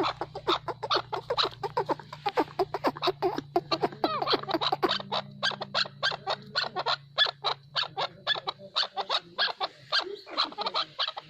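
Chukar partridge calling: a fast, continuous series of short, sharp clucking notes, about five a second.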